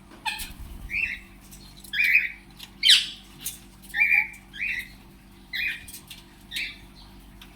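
Pet parrots, Indian ringneck and Alexandrine parakeets and cockatiels, squawking: a string of short, harsh calls about once a second, the loudest and sharpest about three seconds in.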